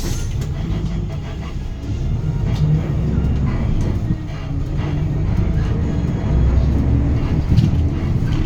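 Cabin sound of a 2019 Hyundai Green City city bus pulling away: its D6GB diesel engine runs with a deep, loud rumble that swells and eases as the bus accelerates.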